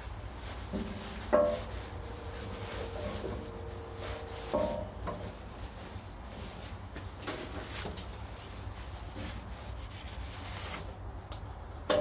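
Hands rubbing and working tape around a bandsaw's wheel, with a few short pitched squeaks, the sharpest about a second in.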